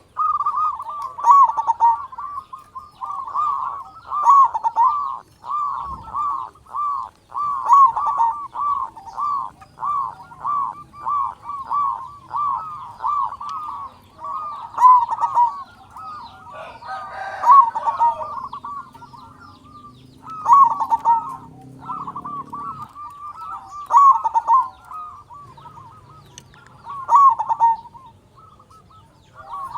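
Zebra dove (perkutut) cooing continuously: long runs of quick, rolling coo notes, with two brief pauses. It is a local bird in full song with a big voice.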